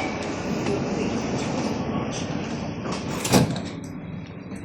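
Doors of an SMRT C151B metro car sliding shut, with a steady hiss, then closing with one sharp thud about three seconds in.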